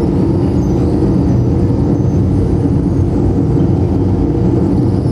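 Live experimental noise music: a loud, steady low rumble of dense noise, with faint warbling high tones flickering above it.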